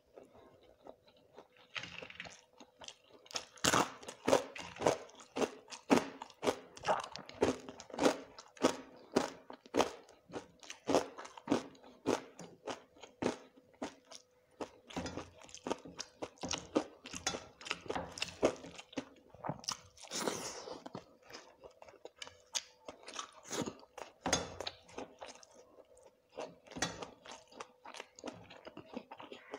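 Crunching and chewing of crisp food right at a clip-on microphone: a rapid run of loud, sharp crunches, several a second, which thins out near the end.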